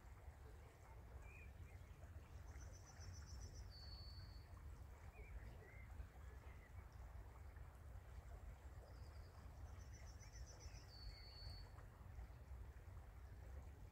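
Faint outdoor ambience: a songbird sings the same phrase twice, about three seconds in and again about ten seconds in, a high trill followed by a slightly lower held note, over a steady low rumble.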